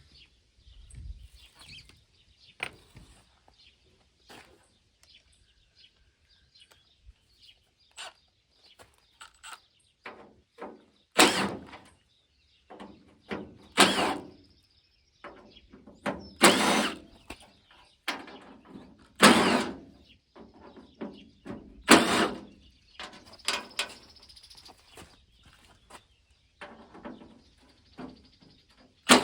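Hand tools working on a rusted steel pickup tailgate: scattered light clicks and taps, then a run of loud metal knocks or bangs about two and a half seconds apart.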